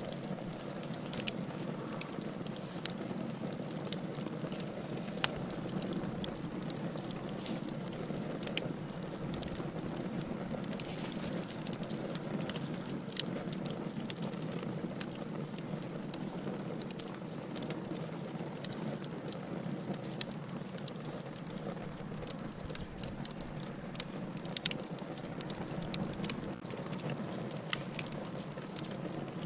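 Wood fire burning in a fireplace, crackling steadily with frequent sharp pops and snaps over a low, even rush of the flames.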